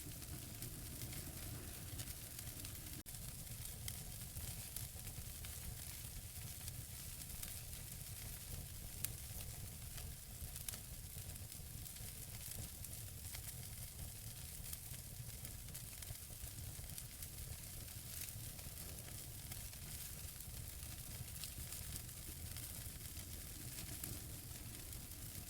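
Wood fire burning in a fireplace: logs crackling with frequent small pops over a steady hiss, with one louder pop about nine seconds in.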